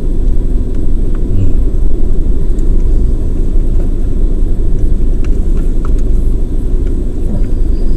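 Steady low rumble of a moving car heard inside the cabin, with a few faint clicks.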